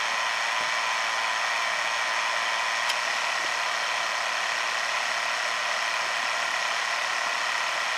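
Ram 1500's 3.7L V6 engine idling with a steady high-pitched whine from an accessory-drive pulley, which the owner suspects is going bad.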